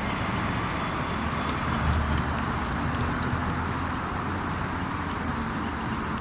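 Wood campfire burning, crackling with scattered sharp pops over a steady hiss, with a low hum underneath.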